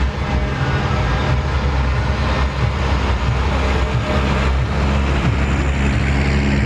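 Heavy diesel truck engine running loud and close, with its low pitch shifting briefly as a truck drives out.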